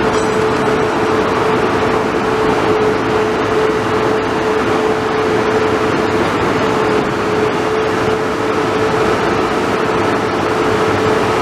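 Front-loader garbage truck running loud and steady, with a constant whine held over the engine noise.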